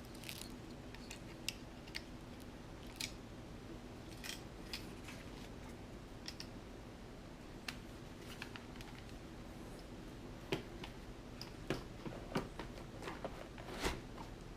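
Faint, irregular clicks and taps of a plastic DJI Phantom 2 quadcopter and case parts being handled as the quadcopter is set into its carrying case, with the taps coming thicker near the end.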